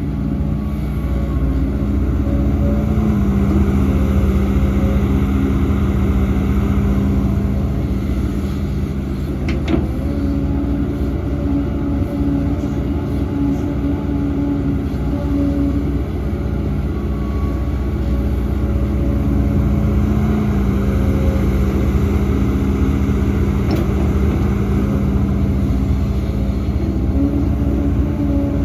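Heavy diesel engine of earthmoving machinery running steadily under load, its pitch shifting slightly a couple of times, with a single sharp knock about ten seconds in.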